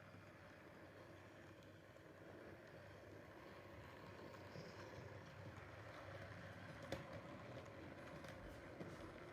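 Model railway locomotive running along the track: a faint, steady rumble that slowly grows louder, with a sharp click about seven seconds in and a few lighter clicks near the end.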